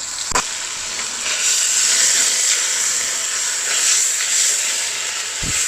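Onions in oil and water sizzling in a pan on high heat, a steady hiss as the water boils off. A short knock just after the start and a dull thud near the end.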